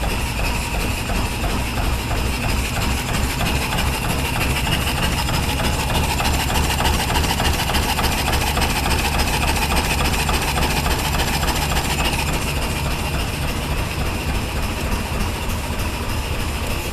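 1909 Brush Runabout's single-cylinder engine idling just after a cold start, a steady rapid chugging of firing strokes.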